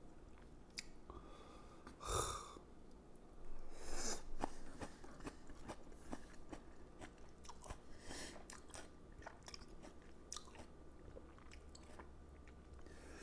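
A man chewing food close to the microphone: faint, irregular small wet clicks of chewing, with a few short louder noisy sounds at about 2, 4 and 8 seconds in.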